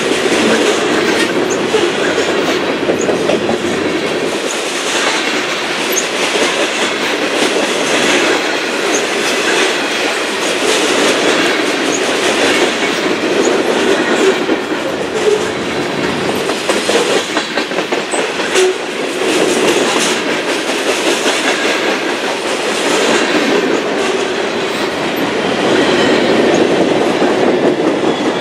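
Freight train cars, covered hoppers and then tank cars, rolling past at close range. Their steel wheels make a steady rumble on the rails, with repeated clicking over the rail joints.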